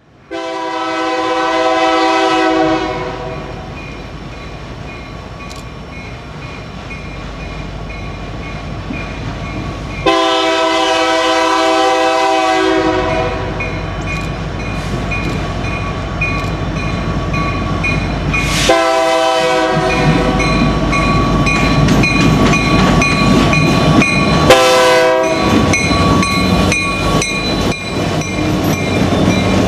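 Freight train's multi-chime air horn sounding two long blasts and two short ones over the rising rumble of approaching locomotives, then the rhythmic clickety-clack of cars rolling over the rail joints.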